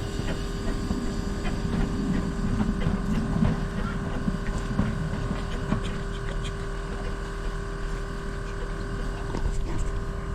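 Narrow-gauge steam train running, a steady low rumble with a constant hum and a few light clicks.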